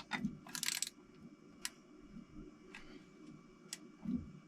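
Hand-tool clicks and clinks on a Toyota 4A-GE engine: a quick run of sharp clicks in the first second, then a few single clicks and a soft knock near the end, as a wrench is worked on bolts being turned to a 90-degree angle.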